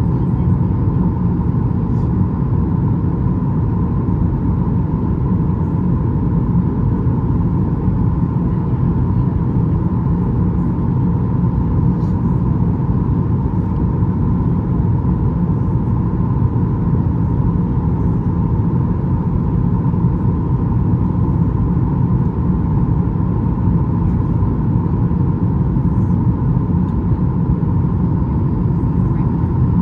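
Boeing 737 MAX 8 cabin noise in flight: a steady rumble of CFM LEAP-1B engines and airflow, with a constant mid-pitched tone running through it.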